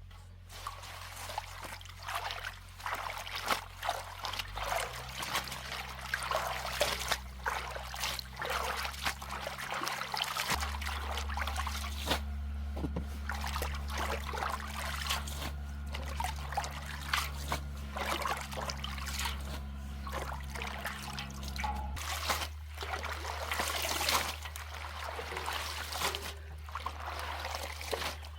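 Water trickling and splashing unevenly, as from a running tap into a sink or basin.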